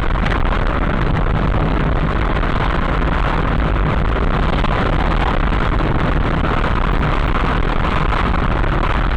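Loud, steady rushing noise of a moving vehicle, with wind and road noise on a dash-cam microphone.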